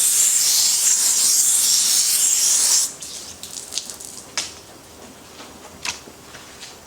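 Running water rinsing the slime off a freshly caught fish, a steady rush that is shut off abruptly about three seconds in. A few drips and light knocks follow.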